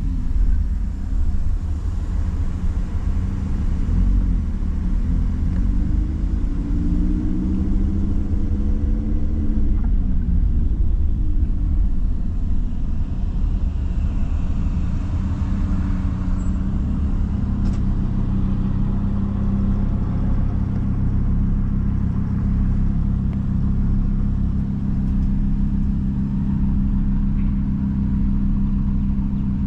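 Sports car engine running, its pitch climbing and falling back in a couple of swells during the first ten seconds, then settling into a steady low drone for the rest.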